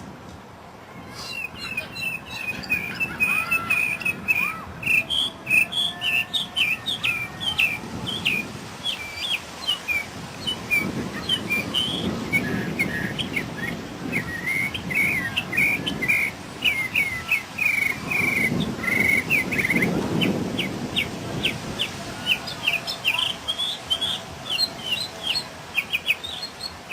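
A mockingbird singing a long, fast run of varied whistled notes and repeated phrases, starting about a second in. A low rumble swells twice in the background.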